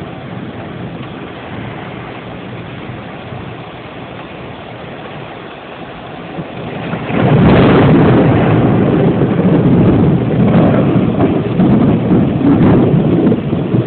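Thunderstorm: a steady hiss of rain, then about halfway through a sudden loud, low rumble of thunder that swells and churns on to the end.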